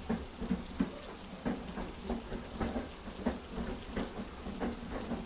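Steady heavy rain with a low rumble under it and faint, unevenly spaced knocks, mixed with the clack of a train's wheels on the rail joints.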